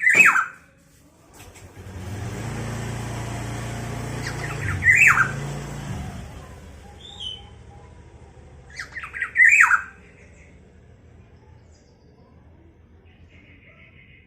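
Black-naped oriole calling three times, about four to five seconds apart: each call is a short cluster of notes that drops in pitch. A low engine hum swells and then fades in the first half.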